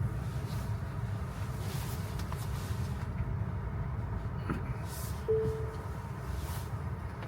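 Low steady rumble of a Tesla electric car rolling slowly on a wet road, heard from inside the cabin. A short, steady beep-like tone sounds once, about five seconds in.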